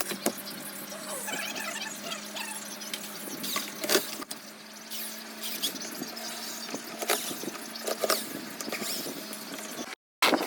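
Scattered knocks and clicks with short, high squeaks over a steady low hum; the sound cuts out briefly near the end.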